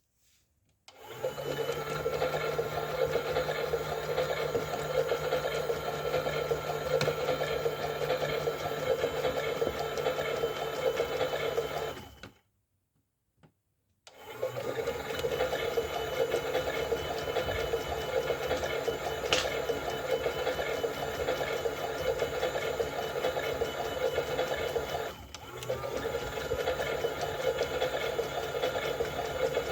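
Toy washing machine's small electric motor running a wash cycle, a steady hum. It cuts out about twelve seconds in, goes silent for a couple of seconds, then starts again, with a short dip near the end.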